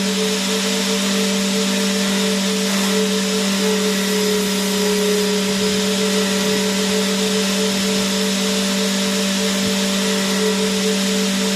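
Vacuum cleaner running steadily: an even rush of air over a constant, unchanging motor hum.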